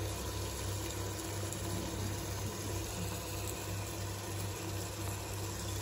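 Prawn masala frying in a pot: a steady, even sizzle over a constant low hum.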